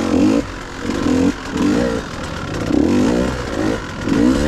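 Dirt bike engine revving up and backing off again and again, about once a second, as the throttle is worked while riding.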